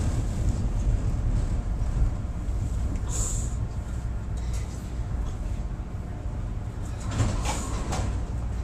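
Chicago 'L' Brown Line train rumbling steadily as it slows into a station platform, heard from inside the car. There is a short high hiss about three seconds in and another brief burst of noise a little after seven seconds.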